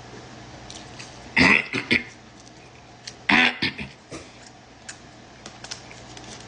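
A person eating, with two short loud bursts of cough-like throat noise, about a second and a half in and again about three seconds in, and small mouth clicks between them.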